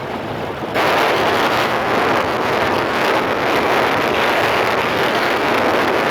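Steady rush of wind and road noise inside a moving car, jumping sharply louder about a second in and holding steady.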